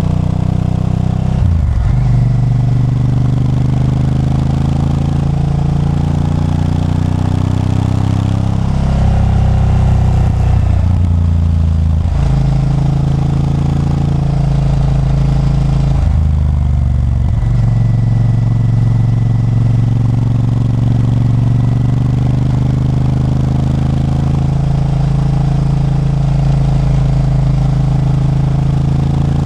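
Honda Varadero 1000's 90-degree V-twin engine running under way, its pitch rising and falling with the throttle and stepping at a few gear changes.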